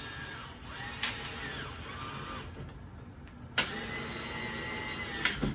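Power drill driving screws into a wooden shelf cleat, in two runs: the motor whine ramps up, holds steady for a second or more, then stops, with a sharp click as each run starts or ends.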